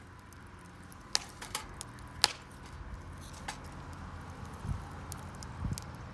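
Wood campfire crackling: irregular sharp pops from the burning wood, with two dull low thumps in the second half.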